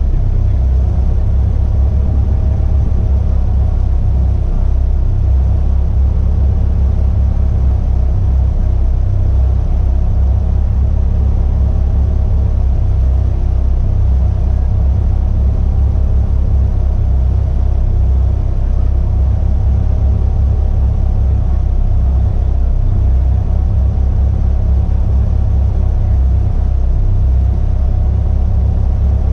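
Caterham Seven Academy car's 1.6-litre Ford Sigma four-cylinder engine idling steadily while the car stands still, heard as a loud, even low rumble.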